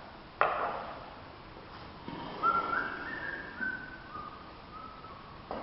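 A sharp knock about half a second in, then a person whistles a short tune of about six held notes that step up and then back down.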